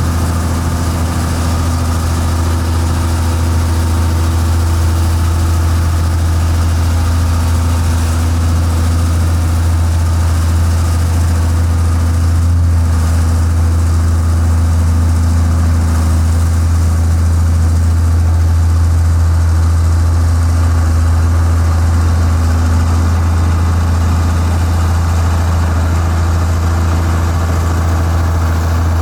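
Heavy diesel engine of construction machinery running steadily with a deep, even hum.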